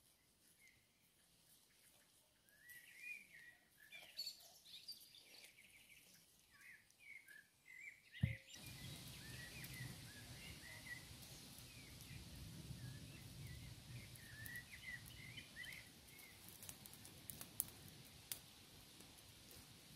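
Birds chirping now and then over faint outdoor background noise. A single sharp click about eight seconds in, after which the background noise is louder.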